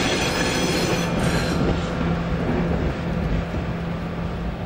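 Freight wagons rolling slowly on the rails, with a high wheel squeal near the start. The low, steady drone of a Kaelble-Gmeinder DE 500 diesel shunting locomotive comes in about a second in as it passes.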